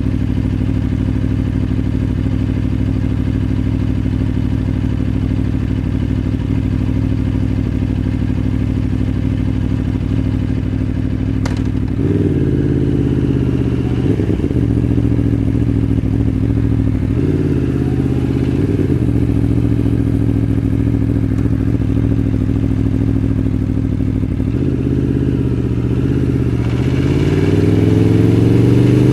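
Aprilia Tuono V4 1100 Factory's V4 engine idling steadily, then creeping along at low revs with a few short rises and dips in pitch, and revving up as it accelerates near the end.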